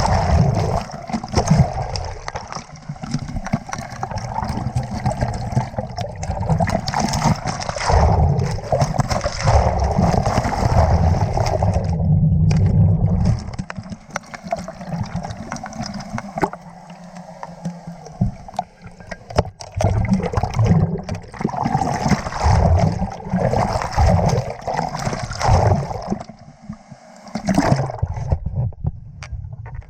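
Water rushing and gurgling close to the microphone, with a heavy low rumble that swells and eases; it is quieter for a few seconds about halfway through.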